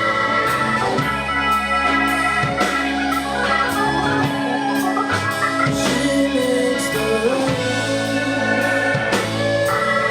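Live rock band playing an instrumental passage of the song: a steady drum beat under held chords, with a melodic lead line moving up and down through the middle.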